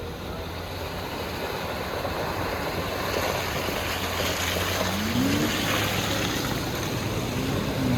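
A 4x4's engine pulling through a creek crossing over a rush of water that grows steadily louder. The engine revs up about five seconds in and again near the end.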